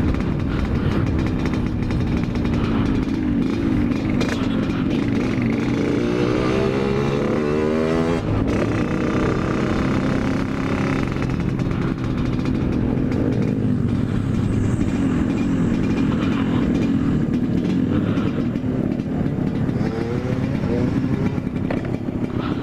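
Yamaha RX-King's two-stroke single-cylinder engine running hard on the move. Its pitch climbs from about six seconds in and drops sharply at a gear change near eight seconds, then climbs again near the end.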